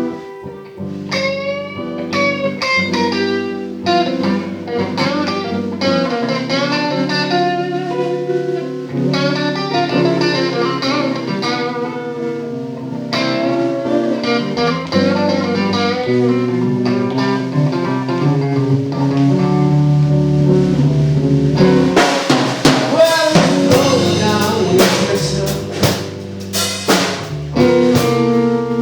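Electric guitar playing a slow blues, with bent, sliding notes over a drum kit. About 22 seconds in, the drums and cymbals hit harder and the playing gets louder.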